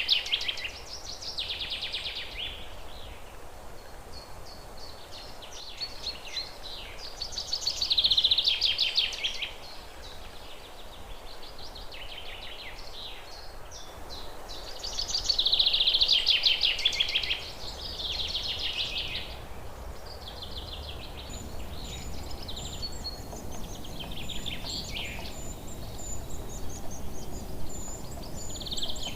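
Wild songbird singing outdoors: loud phrases of rapid notes about every eight seconds, with fainter song between them. In the last third a high, thin pulsing note joins in.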